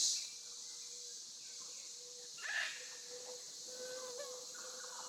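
Outdoor ambience of steady, high-pitched insect chirring, with a single short animal call about two and a half seconds in.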